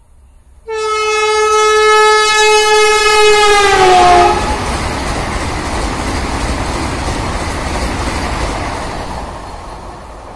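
Vande Bharat Express trainset sounding a long horn as it approaches, the horn's pitch dropping as the train passes, followed by the steady rushing noise of the coaches going by at speed, fading near the end as the train recedes.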